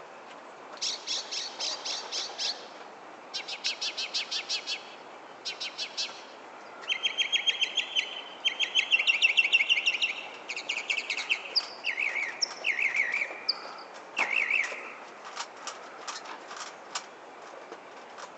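Songbird singing a long, varied song: several runs of rapid trills, then changing whistled and warbled phrases, each repeated a few times in a row, ending in a string of sharp clicks.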